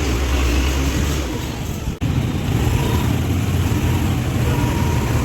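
A vehicle driving on the road: a steady low engine hum under a loud hiss of road and wind noise. The sound breaks off and changes abruptly about two seconds in.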